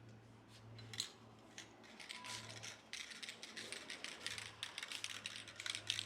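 A quick run of small clicks and rattles from objects being handled, sparse at first and thickening into a dense clatter from about three seconds in, over a faint steady low hum.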